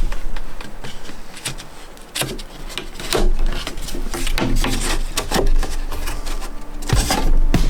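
Irregular wooden knocks and clatter with some scraping, as of wooden boards or cabinet parts being handled and set down.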